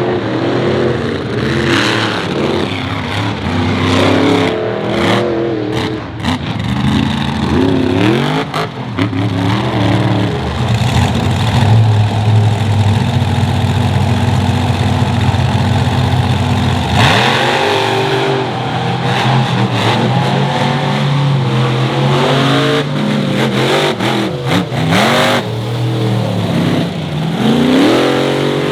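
Monster truck engine revving hard and accelerating, its pitch rising and falling again and again. It holds a steady high note for several seconds in the middle.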